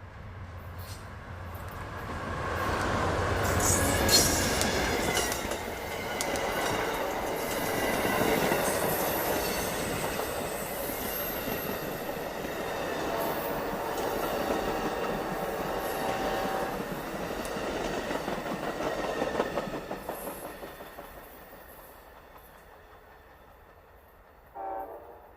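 Amtrak passenger train rolling past a level crossing: a rumble and wheel clatter that builds over the first few seconds, stays loud for about fifteen seconds, then fades away as the train recedes.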